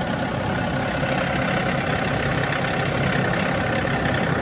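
John Deere diesel tractor engine running steadily.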